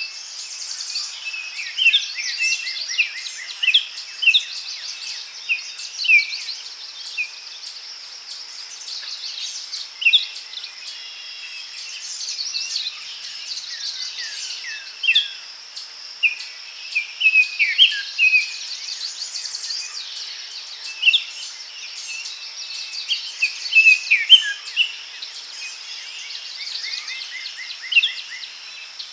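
Daytime forest ambience: several birds singing and chirping in short phrases and trills, one after another, over a steady high-pitched background drone.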